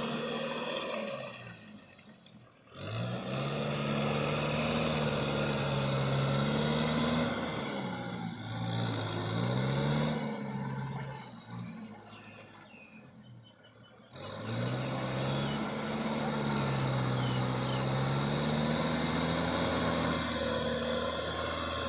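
Kubota tractor's diesel engine working under load while plowing mud, its revs rising and falling. The sound drops away briefly about two seconds in and again for a few seconds past the middle.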